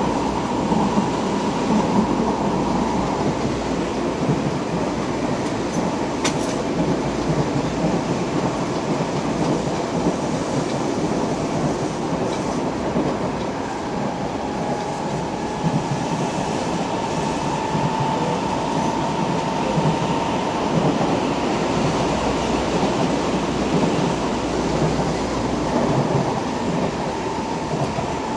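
Running noise inside a Tokyo Metro 6000 series subway car: wheels and traction motors rumbling on the track, with a steady whine near 1 kHz from its Mitsubishi three-level IGBT VVVF inverter. The whine is strong early on, fades, and returns in the second half. This set is an 'odd-sound' unit, one of only two 6000 series sets with this unusual inverter sound.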